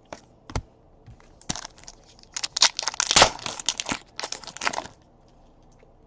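Crinkling and rustling of plastic and foil packaging as trading cards are handled, with a couple of sharp clicks about half a second in. The dense crinkling starts about a second and a half in and stops shortly before the end.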